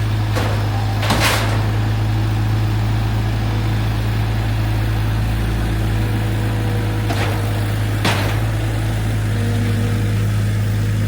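Steady low mechanical hum, like an engine running at idle, with a few brief scrapes or knocks about a second in and again near the end. It cuts off suddenly.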